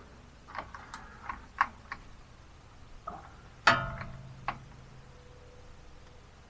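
Scattered light clicks and taps of metal hand tools and parts, then one sharp metallic clank that rings briefly about three and a half seconds in, followed by a couple more taps.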